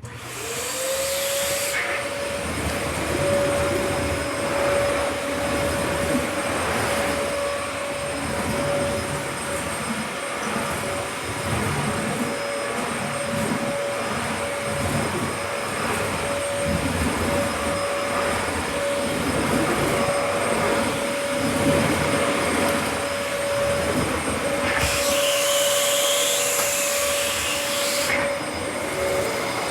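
Vacuum cleaner switched on, its motor spinning up within the first second to a steady high whine over a loud rush of suction, as it is pushed over the hard kitchen floor. A louder hissing rush of air comes right at the start and again about 25 seconds in.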